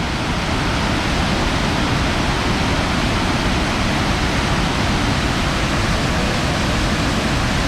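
Large waterfall falling with great force: a steady, loud rush of water.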